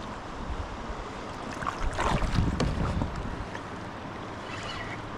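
Steady wind and water noise around a kayak on a river, with a louder rustling stretch and a few sharp knocks about two seconds in.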